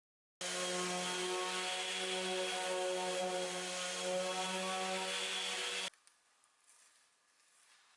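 An electric power tool running steadily on wood, a motor hum with a hiss over it. It starts abruptly just after the start and cuts off sharply about six seconds in, leaving only faint scraping.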